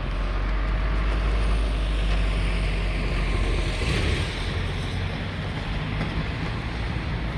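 Sea surf washing on the beach, a wave hiss swelling to its loudest about four seconds in, over a steady low rumble of wind buffeting the microphone.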